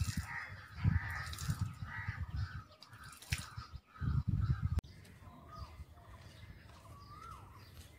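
Birds calling: a run of repeated calls, about two a second, over irregular low bumps, then after a sudden cut a few thin chirps that rise and fall.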